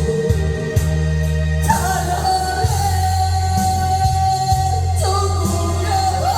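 Korean trot song: a singer holds long notes over a backing track with a steady bass and beat.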